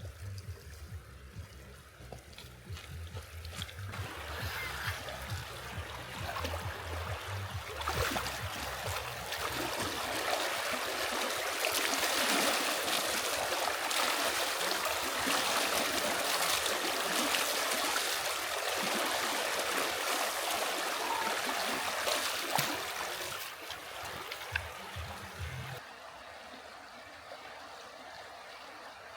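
River water flowing over stones, a steady rushing that grows louder a few seconds in and drops back near the end.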